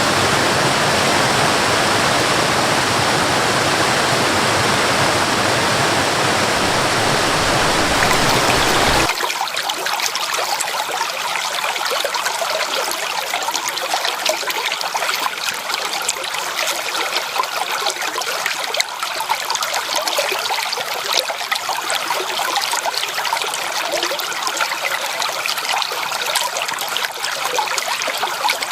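Waterfall rushing steadily with a deep, full roar, cut off abruptly about nine seconds in for a flowing stream, whose water sounds lighter and splashier with little low end.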